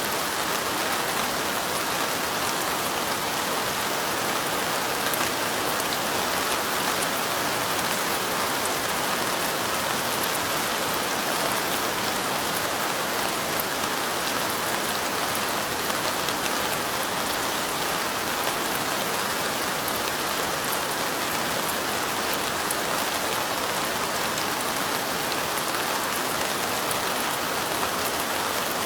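Steady rain falling, an even hiss with a fine patter of individual drops, unchanging throughout.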